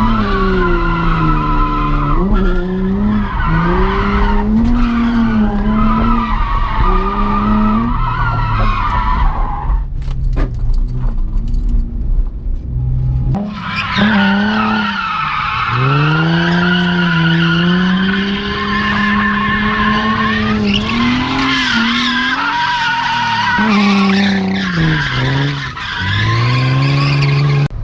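Drift car's engine revving up and down under hard throttle while its tyres squeal through repeated 360-degree spins, hard enough to wear a tyre down. A little before the middle the revs drop away for about four seconds, then climb back and hold high.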